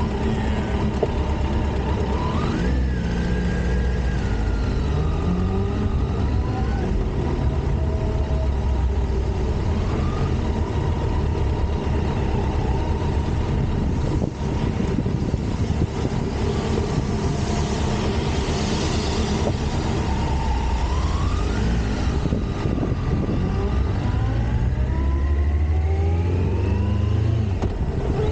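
Kawasaki Concours 14 sport-tourer's inline-four engine pulling away and accelerating, its pitch rising in several sweeps as it revs up through the gears over a steady low rumble.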